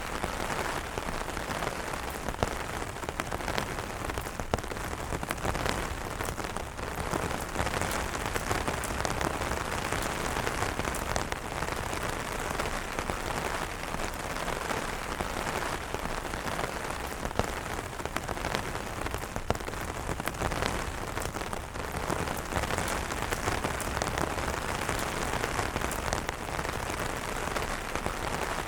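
Steady rain pattering on umbrella fabric, a dense even hiss of drops with many small sharp taps scattered through it.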